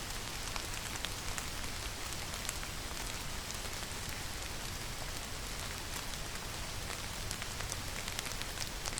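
Steady rainfall: an even hiss of rain with many small drops ticking on a surface.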